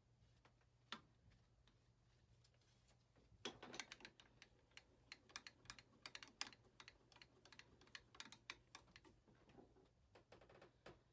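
Faint, irregular clicks and taps of small hard objects knocking together, a single click about a second in, then a quick, uneven run of them from about three seconds in almost to the end.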